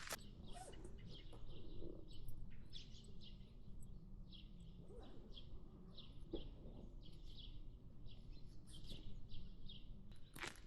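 A small bird calling with a steady series of short, high chirps, between two and three a second.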